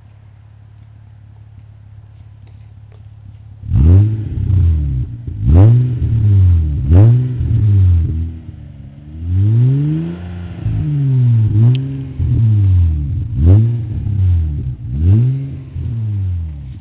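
2002 Hyundai Sonata engine heard through an aftermarket Netami performance muffler. It idles steadily, then from about four seconds in it is revved in a series of quick blips that rise and fall, with one slower, longer rev in the middle.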